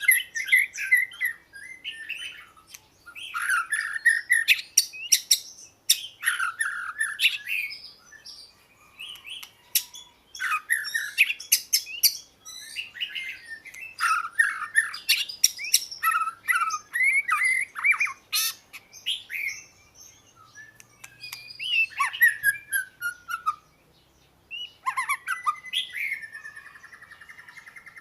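Oriental magpie-robin singing: a varied song of whistled, gliding and chattering phrases delivered in bursts with short pauses between them.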